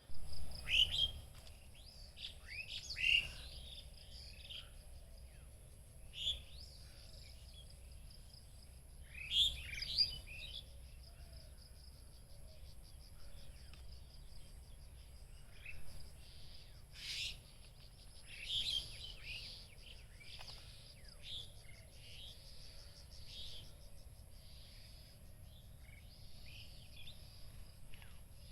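Birds chirping and calling in short, scattered notes, busiest in the first few seconds and again around nine to ten seconds in. A steady high-pitched whine runs underneath.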